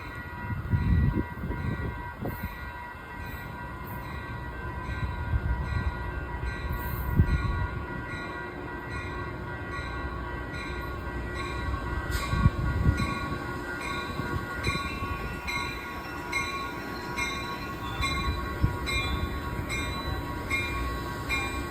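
Amtrak passenger trains running in a train meet: a steady rail rumble with a few louder surges, under steady high tones. From about halfway, a ding repeats roughly twice a second.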